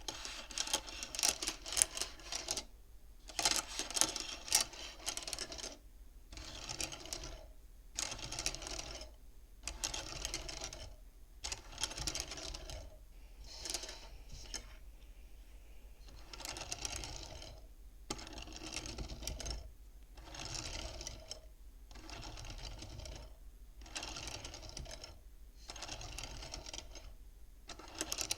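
Beads of a bead-counting abacus being slid along their rods, clattering against one another in runs of quick clicks a second or two long, with short pauses between runs.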